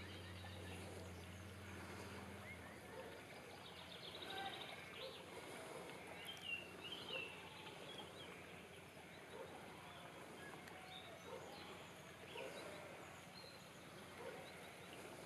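Faint countryside ambience with birds chirping in the distance, clearest around five to seven seconds in. A low steady hum stops about three seconds in.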